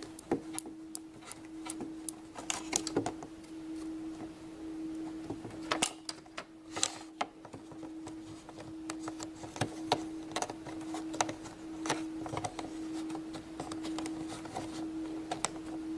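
Scattered small clicks and taps of hands pressing Play-Doh into a plastic popsicle mold, under a steady hum.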